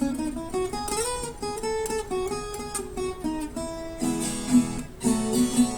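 Instrumental break on acoustic guitar: a picked single-note melody, then strummed chords from about four seconds in.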